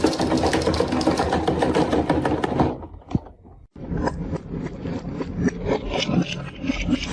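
Marbles clattering and clicking along a toy marble run track in a fast, dense rattle that drops away about three seconds in, then resumes more thinly with scattered clicks and knocks.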